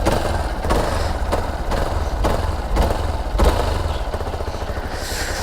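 Hero XPulse 200 4V's single-cylinder engine idling steadily, with light ticks about twice a second. The owner holds that the engine itself has no abnormal noise, and puts any sound down to the chain sprocket or loose nuts and bolts.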